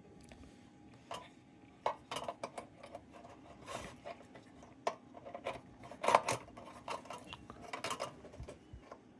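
Metal parts of an Embury No. 50 lantern clinking and scraping as they are handled and fitted together: a run of small irregular clicks and clatters, the loudest about six seconds in.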